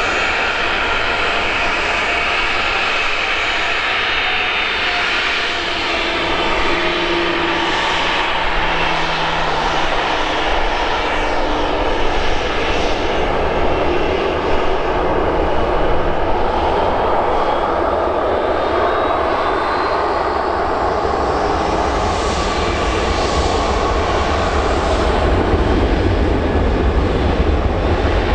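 Boeing 737-800 jet airliner's CFM56-7B turbofan engines running at takeoff power, a loud steady jet noise with a high whine that rises in pitch partway through. The deep rumble grows stronger near the end.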